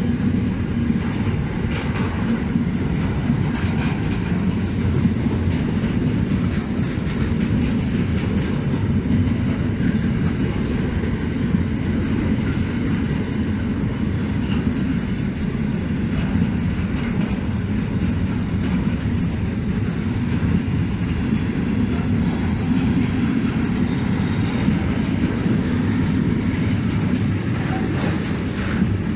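Container freight train passing close by: loaded container flat wagons rolling over the rails with a steady low noise.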